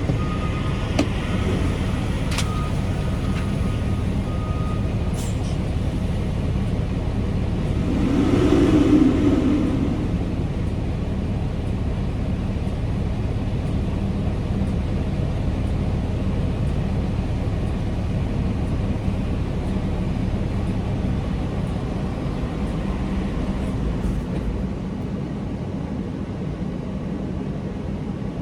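Semi truck's diesel engine idling steadily with a low hum, with a brief louder swell about eight seconds in and a few light clicks near the start.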